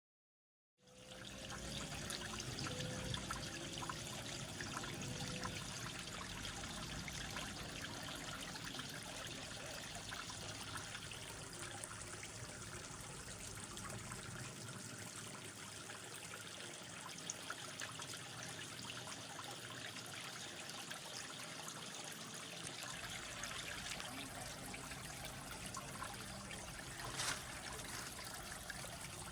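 Creek water trickling steadily, starting about a second in. A short sharp click or knock near the end.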